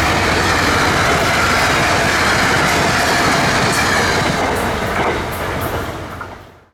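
Metro-North passenger train passing at speed: a steady rush and clatter of wheels on rail, fading away near the end.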